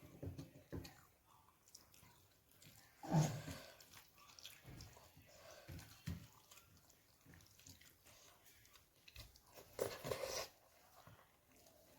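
A person chewing and eating close to the microphone: irregular mouth smacks and soft crunches, with louder bites about three seconds in and again near ten seconds.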